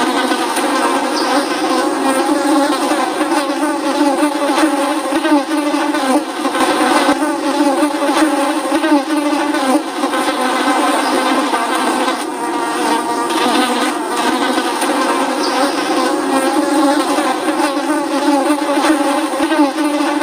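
Flies buzzing continuously, several overlapping wing hums wavering in pitch.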